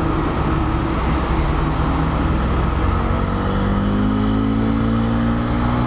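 Bajaj Dominar 400's single-cylinder engine running under way over wind and road noise. Its pitch rises gradually from about halfway as the bike speeds up.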